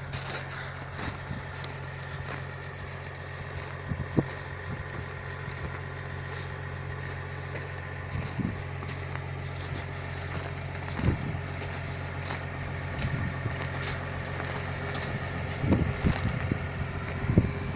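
Caterpillar 320 long-reach excavator's diesel engine running steadily, with a few sharp knocks at irregular intervals.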